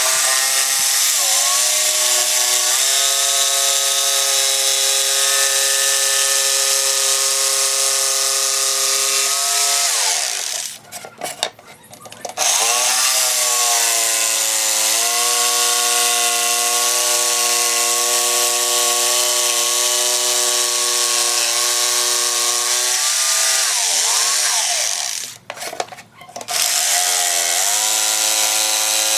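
Handheld electric power tool running in three long runs of about ten seconds each, with a steady motor whine and a strong hiss. The pitch shifts as the tool takes load and glides down each time it is switched off and spins down.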